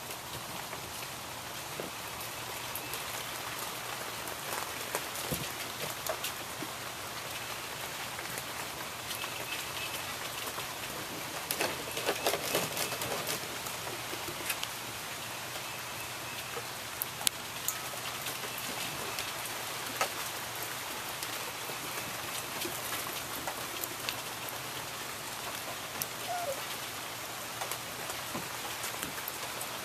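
Steady rain falling, a continuous hiss dotted with scattered drop hits, with a brief denser patch of patter about twelve seconds in.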